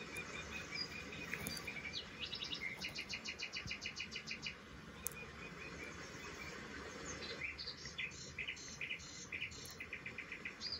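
Birds chirping in quick runs of short, high notes, some rapid trills of about ten notes a second and some rising chirps, over a faint steady background hiss.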